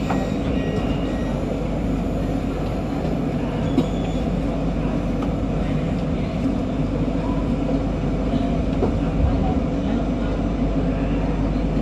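MRT metro train running, a steady rumble of wheels and traction equipment heard from inside the train, with one sharp click about four seconds in.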